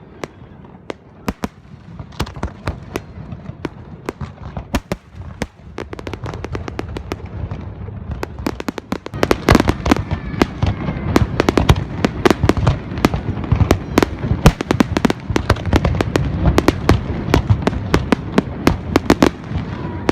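Fireworks display: rapid sharp cracks and bangs over a rumbling background. About halfway through they grow louder and denser into a near-continuous barrage of crackling bursts.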